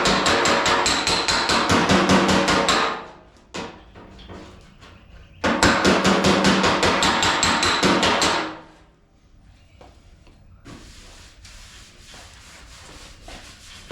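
Rapid metal hammering on a steel car fender panel, about ten blows a second, in two bursts of roughly three seconds each with a metallic ring. Quieter, scattered light knocks follow.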